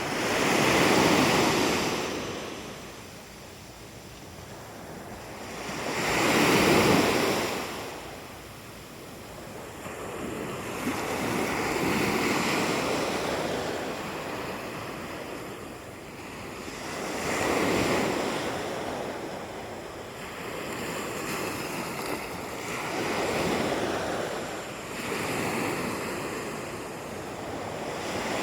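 Sea waves washing in, one every five or six seconds, each swelling to a peak and falling away.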